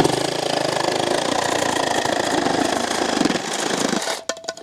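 A power saw cutting through a length of drain pipe, running steadily for about four seconds and then stopping.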